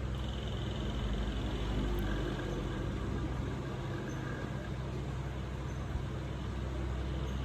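A steady low motor hum with a constant background hiss.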